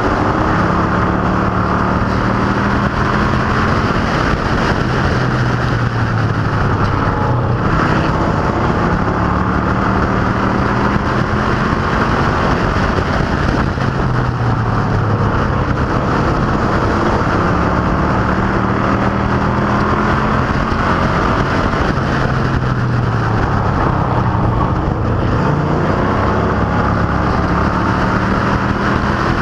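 A field of stock cars and trucks racing on an oval track, their engines running loud and continuous. The engine pitch rises and falls in repeated cycles of several seconds as they accelerate and lift around the laps.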